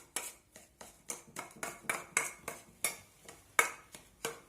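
A spoon clicking and scraping against a dish as chopped boiled egg is mixed with ground bread. There are quick, uneven clinks, about three or four a second, the loudest about three-quarters of the way through.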